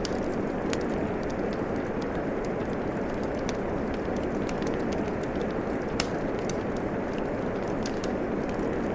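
Steady rain with a wood fire crackling over it: a continuous hiss of falling rain, dotted with sharp pops from the fire, one louder pop about six seconds in.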